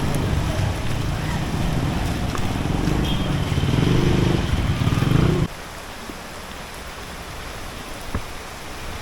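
A motor vehicle's engine running close by, a loud low hum over the hiss of rain; about halfway through it cuts off abruptly, leaving the softer steady hiss of rain on the street.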